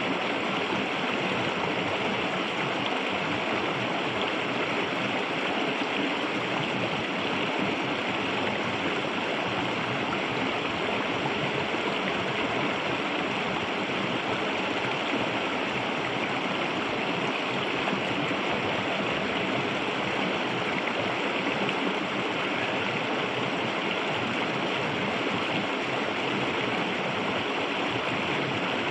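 Clear, shallow river water rushing and gurgling steadily over stones.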